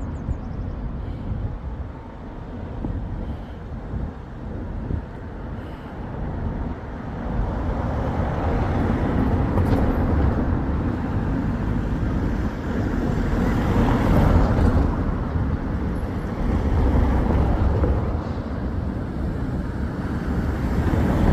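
Road traffic going by: engine rumble and tyre noise from passing motor vehicles. It grows louder about a third of the way in, and one vehicle passes closest around the middle.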